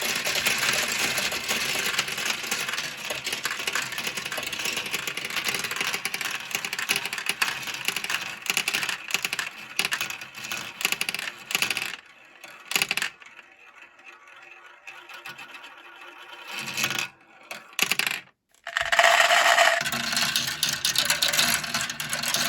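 Many marbles rolling and clattering down a plastic Kumi-Kumi Slope marble run, a dense stream of rapid clicks. The clicks thin out about halfway through and almost stop, then a brief louder ringing clatter comes near the end and the clicking picks up again.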